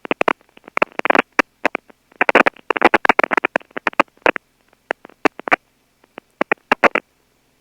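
Aircraft radio audio breaking open in choppy bursts of static-like noise, cutting in and out irregularly with dead silence between. The sound is thin and band-limited, like a radio. The bursts stop near the end.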